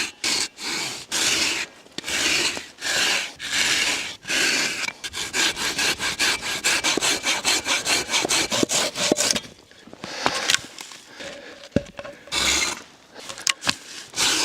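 Hand saw cutting through a log, back-and-forth strokes rasping through the wood. The strokes are slow at first, then come quicker, about four a second, pause briefly about nine seconds in, and pick up again near the end.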